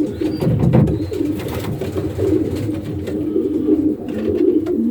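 Many pigeons cooing together in a loft, a steady overlapping low warble, with a few faint scuffs.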